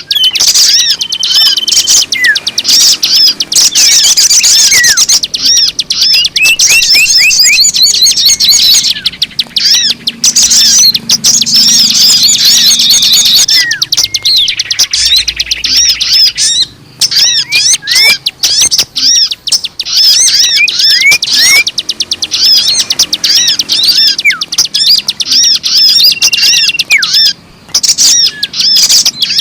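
Loud, dense chorus of many small birds chirping and twittering at once, rapid overlapping calls with short pauses about two-thirds of the way through and near the end. It is a bird-lure recording, a mix of birdsong played to draw wild birds in.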